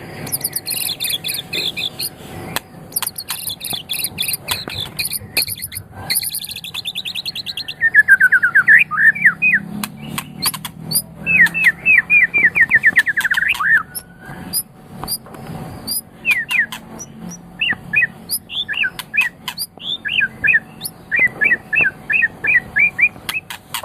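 White-rumped shama (murai batu) singing a varied song: high buzzy trills and ticks at first, then from about eight seconds in loud, fast runs of repeated sweeping notes, and short separate whistled notes near the end.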